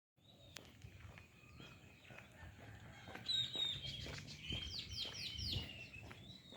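Several wild birds chirping and calling, louder from about halfway, with a run of four quick downward-sliding whistled notes near the end. Soft footsteps underneath.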